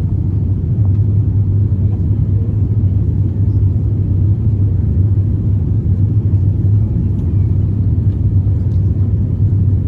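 Steady low rumble inside the cabin of an Airbus A350-900 airliner in flight: engine and airflow noise, even throughout.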